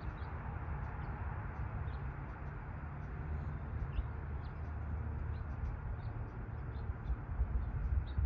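Small birds chirping, many short high calls scattered throughout, over a steady low rumble that grows louder and uneven near the end.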